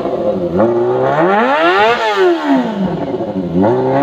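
Kawasaki ZX25R's 250 cc inline-four engine revved through an Arrow aftermarket exhaust. The revs climb smoothly for over a second to a high peak, fall back, and start climbing again near the end.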